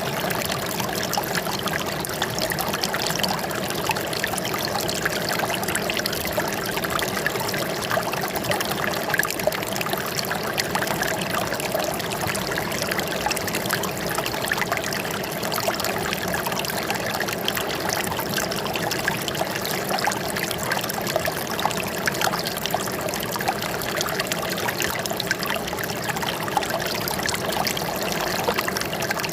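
Running water trickling and pouring steadily, like a small stream.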